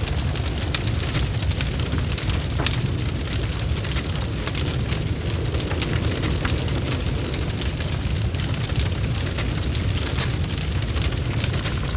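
Bonfire crackling and popping: many small sharp snaps at irregular intervals over a steady low rumble of the flames.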